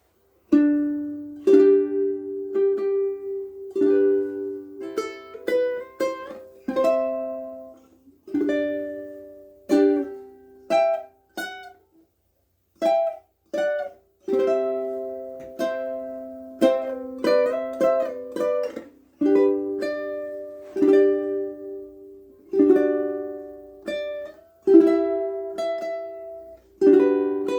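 KoAloha ukulele played unaccompanied: a tune of plucked and strummed chords, each ringing and dying away, with a couple of brief pauses about halfway through.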